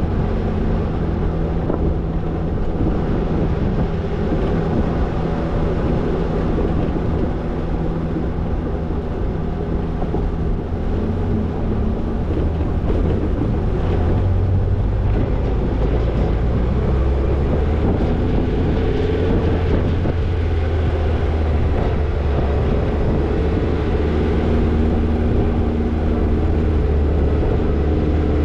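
Toyota Tercel 4WD wagon's engine running steadily while the car is driven, its pitch rising and falling a little as it moves, over a hiss of wind and tyre noise.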